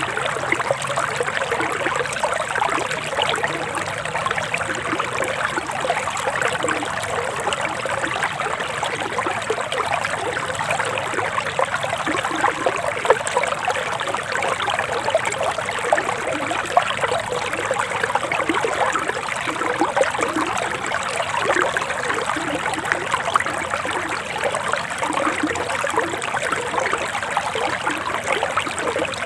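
A forest stream flowing and trickling over stones, a steady, busy rush of splashing water.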